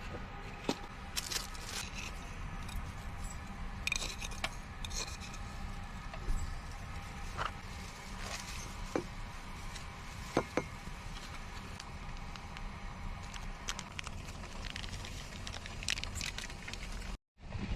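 Small clicks, scrapes and rattles of cooking utensils and containers being handled, over a steady low rumble.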